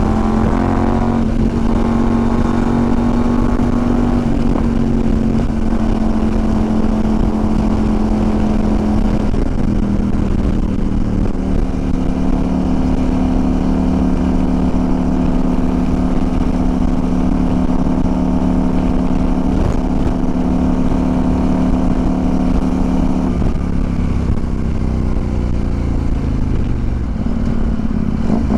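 CFMOTO 800MT parallel-twin motorcycle engine running steadily at cruising speed, its note stepping down and up a few times, then falling away over the last few seconds as the bike slows. Wind rumbles over the microphone throughout.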